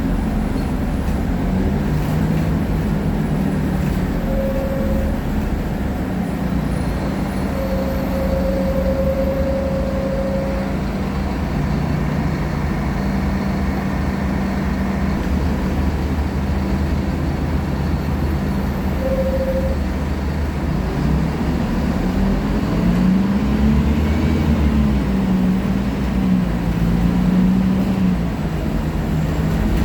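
Scania K310IA articulated bus's diesel engine running under way, its pitch stepping up and down with speed and gear changes, and climbing then dropping back a little after the middle, over a steady rumble of road and body noise. A short higher tone sounds three times in the first two-thirds.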